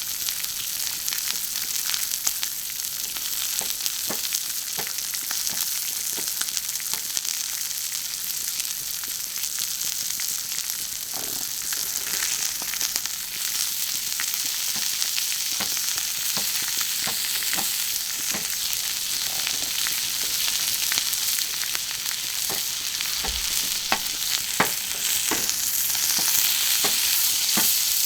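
Food sizzling steadily on a thick iron griddle plate, with many small scattered pops and crackles, a little louder near the end.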